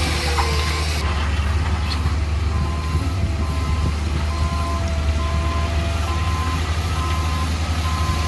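Heavy diesel construction machine running with a low, steady rumble, while a reversing alarm sounds regular short beeps, about one every three-quarters of a second.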